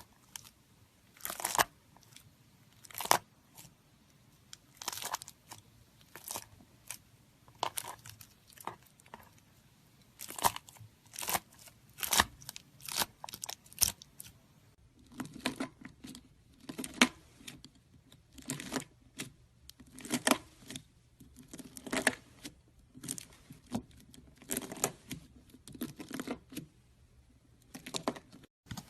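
A knife cutting again and again through crunchy slime, each cut a short crackling crunch, about one or two a second. About halfway through, the crunches come closer together and sound fuller.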